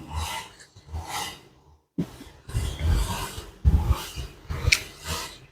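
Eating sounds close to the microphone: chewing, smacking and breathing, in irregular bursts about a second apart.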